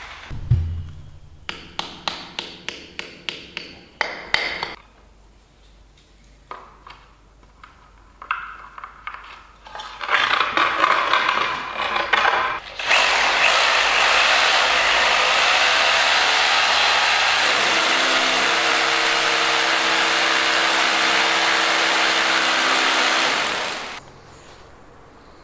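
Workshop tool work: a quick run of about a dozen sharp taps, some scattered knocks, then a power tool running steadily for about ten seconds before it stops suddenly.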